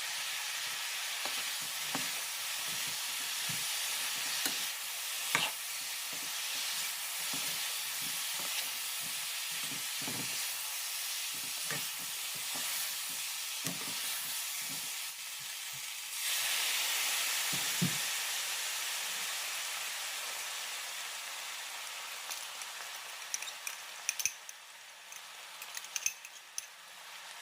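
Food sizzling in a frying pan as it is stirred, with short knocks of the spoon against the pan. The sizzle swells suddenly about two-thirds of the way through, then slowly dies down, with a few sharp clicks near the end.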